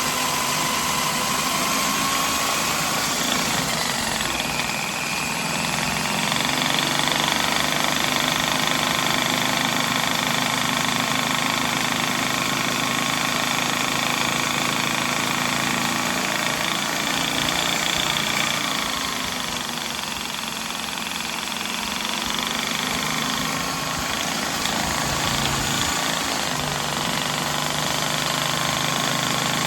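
Corded electric drill running steadily, spinning a Husky drum-snake attachment to work the cable into a clogged drain pipe. The motor whine holds a steady pitch, sagging briefly a little past the middle and then recovering.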